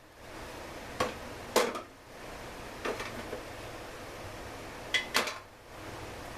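About five sharp metallic clinks and knocks of tools or small parts being handled, spaced unevenly, over a steady low hum.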